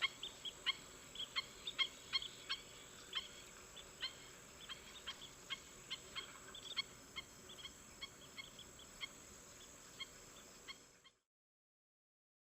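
A flock of birds giving short, repeated honking calls, several a second at first, then thinning out and growing fainter; the sound cuts off abruptly near the end.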